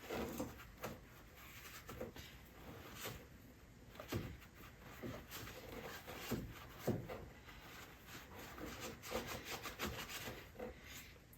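Faint scattered clicks, light knocks and rubbing as small metal parts of an ATV's brake line and caliper are handled.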